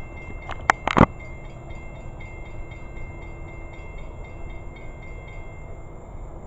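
A train approaching, heard as a steady low rumble, with a faint repeated high ringing above it that stops about five seconds in. A few sharp knocks sound about a second in.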